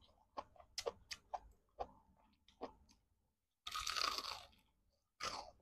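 Close-miked eating sounds: soft chewing clicks and smacks, then, about three and a half seconds in, a loud crunchy bite into a breaded fried chicken drumstick, with a shorter crunch just before the end.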